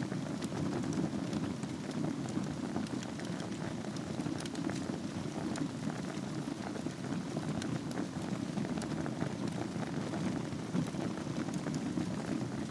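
Wood fire burning in a fireplace: a steady low rush of flames with many small crackles and pops scattered through it.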